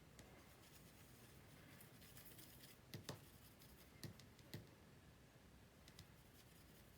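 Near silence, with a handful of faint light taps and clicks from craft work on the table, such as a water brush and ink pad being handled.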